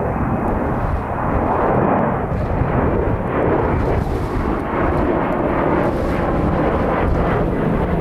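Boeing 737-800 jet engines running with a loud, steady rumble, mixed with strong wind buffeting the microphone.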